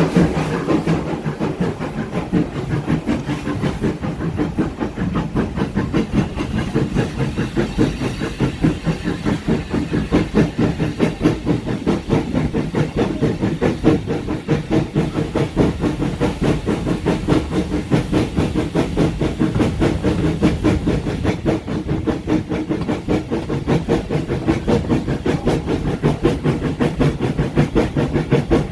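Heritage railway train on the move, with a fast, even rhythmic beat and a hiss.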